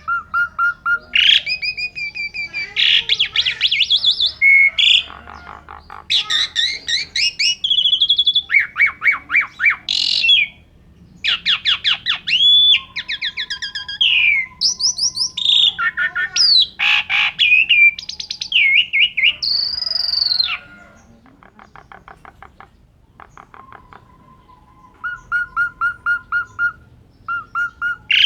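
Asian pied starling (jalak suren) singing a long, varied song: rapid runs of repeated chattering notes mixed with clear whistled slides, with a quieter spell about three-quarters of the way through.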